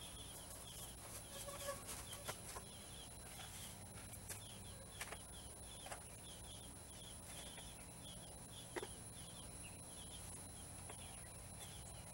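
A bird calling faintly in a steady run of short, high chirps, about two or three a second, with a few faint clicks now and then.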